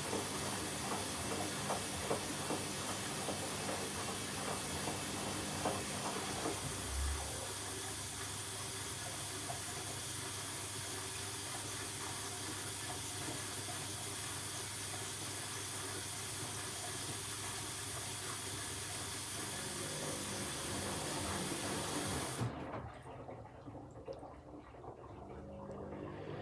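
Hoover H-Wash 300 washing machine taking in water through its inlet valve, a steady hiss with some light splashing and clicks in the first few seconds. The hiss cuts off suddenly about 22 seconds in as the valve closes, leaving the machine's quieter hum.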